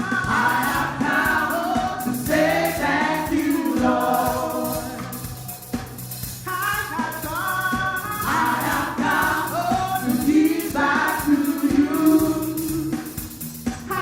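Gospel worship music: a choir of voices singing over a band with sustained bass notes and a steady beat.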